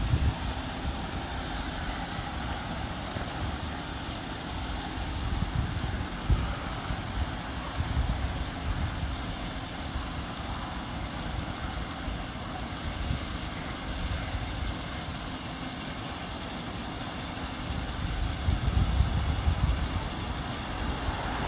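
Vehicle engine and traffic noise: a steady running rumble that swells about six seconds in and again near the end.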